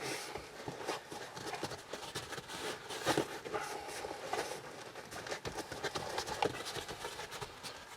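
Irregular clatter and knocks of objects being handled and set down, uneven taps and bumps with no steady rhythm.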